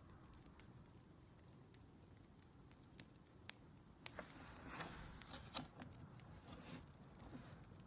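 Faint crackling of a wood fire: scattered sharp pops, with a denser run of crackle a little past the middle.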